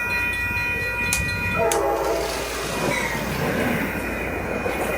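Atlas N scale model train running on its track, a steady electric whine over light clatter from the wheels. A short pitched tone sounds about a second and a half in.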